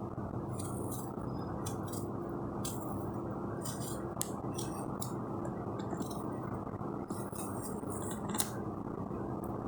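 A blade peeling a raw potato: irregular short scraping strokes, a few a second, over a steady low hum.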